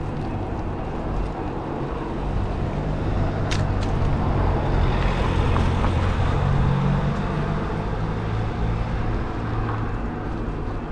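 Road traffic heard from a moving bicycle: a motor vehicle's engine swells as it passes through the middle, over steady road noise, with one sharp click about three and a half seconds in.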